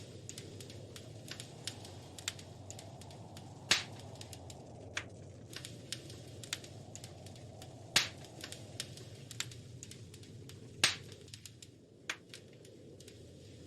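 Wood fire crackling in a fireplace: a steady low rush of flame with scattered sharp snaps and three louder pops about four and three seconds apart.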